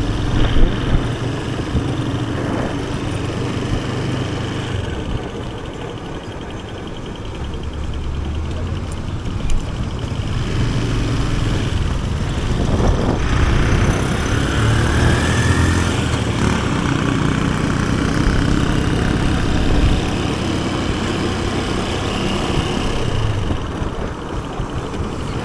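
Motorcycle engine running as it is ridden, its note rising and falling.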